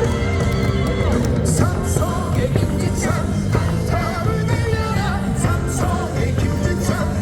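Baseball stadium crowd singing a batter's cheer song along with loud music over the stadium speakers, with a steady beat.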